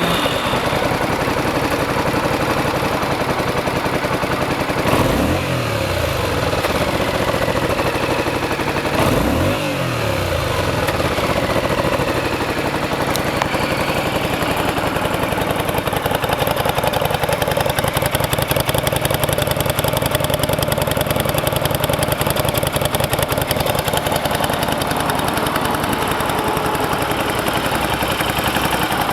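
Yamaha DragStar 400 Classic's air-cooled V-twin engine idling, blipped twice, about five seconds in and again about nine seconds in, each time rising quickly and falling back, then idling steadily.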